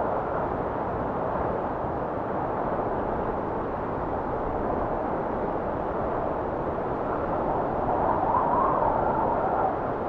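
Blizzard wind blowing in a steady, rushing noise. About eight seconds in, a gust swells, bringing a wavering higher whistle before it settles again.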